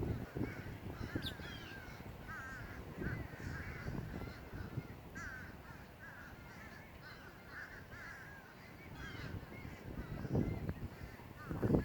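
A flock of crows cawing, many short calls overlapping, with louder calls near the end.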